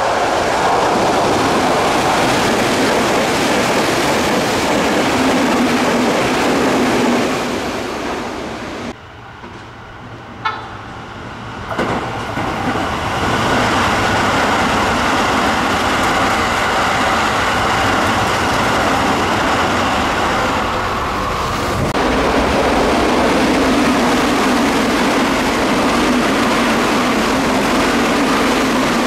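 Electric commuter trains passing at high speed: a loud, steady rush of wheels on rail and running gear, in several shots that cut in abruptly one after another. A quieter stretch about nine seconds in holds a brief high tone.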